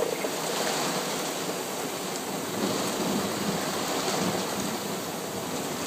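Heavy rain pouring down in a downpour, a steady even hiss.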